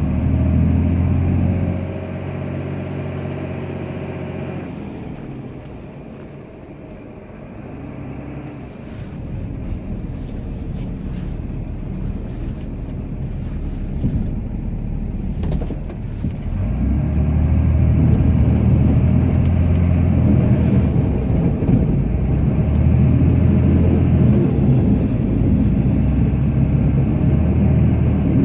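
Cummins turbo-diesel inline-six in a Ram pickup, heard from inside the cab while plowing snow. The engine pulls hard, eases back to a quieter run around two seconds in, then slowly builds and is working hard again from about two-thirds of the way through.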